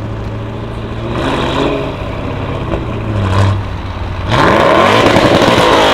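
Audi RS6 C7's twin-turbo V8 through a decatted, non-resonated Milltek exhaust, idling with two short throttle blips. About four seconds in it is revved hard and long, rising in pitch, the loudest part.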